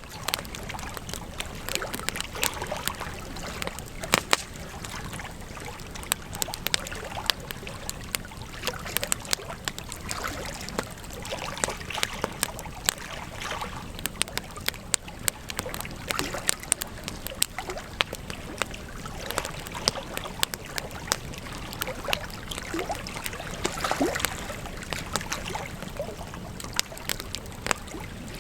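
Wood campfire burning: frequent, irregular sharp crackles and pops over a steady hiss.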